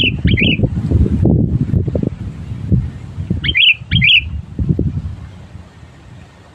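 Sooty-headed bulbul calls: two quick pairs of short chirps about three and a half seconds apart, over a loud, irregular low rumble that dies down near the end.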